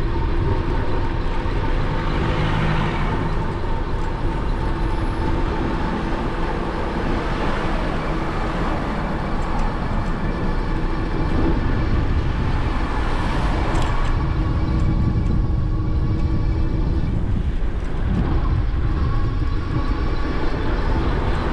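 Wind and road noise on an action camera's microphone while riding an e-bike: a steady low rumble throughout, with faint steady whining tones over it.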